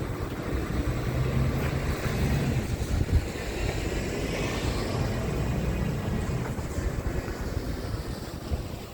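Scania R tractor unit's diesel engine running steadily, with wind rumbling on the microphone.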